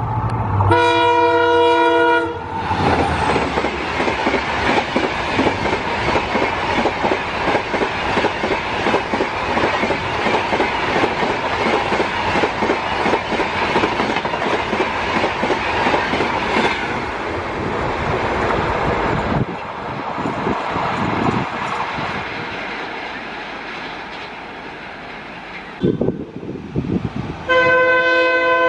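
Diesel locomotive's multi-tone horn blasting for about a second and a half, then the passenger train passing at high speed: wheels clattering over the rail joints under a steady rushing noise of the coaches, which fades away over the last several seconds. Near the end a second locomotive's horn starts sounding.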